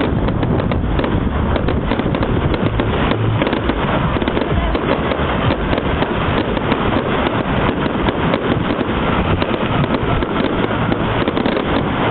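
Fireworks display: a dense, unbroken crackle of many rapid small bangs.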